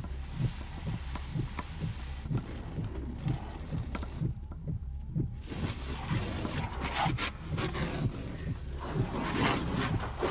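Water spraying against the car's windows and body, heard from inside the cabin as a hiss over a steady low hum with quick regular pulses. The spray breaks off for about a second midway, then resumes.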